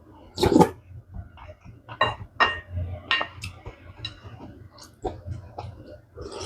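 Close-miked eating sounds: chewing, with a quick run of wet smacks and clicks. Two louder mouthfuls come about half a second in and at the very end.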